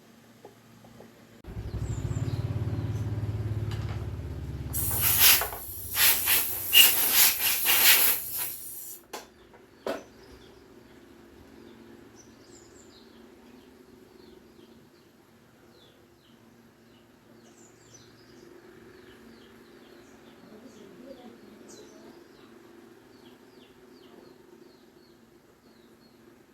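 A low hum for a few seconds, then about four seconds of loud, pulsing hiss, ending with a sharp click. Faint chirping birds follow.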